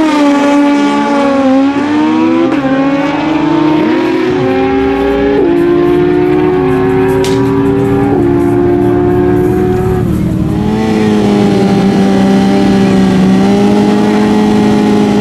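Naturally aspirated stock motorcycle drag bikes at full throttle down the strip. The engine pitch climbs within each gear and drops at each upshift, several times over the first eight seconds, then holds fairly steady in the later part.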